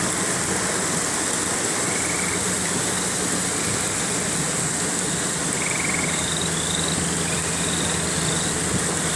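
A vehicle's engine idling under a steady hiss of rain, with short high chirping calls repeating from about two seconds in.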